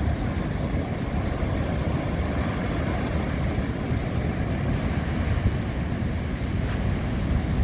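Steady, low rumbling noise of wind buffeting the microphone, with no clear events.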